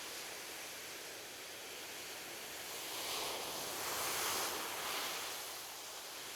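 Ocean waves washing onto a beach. One wave swells louder about halfway through, peaks, and then subsides into the steady hiss of the surf.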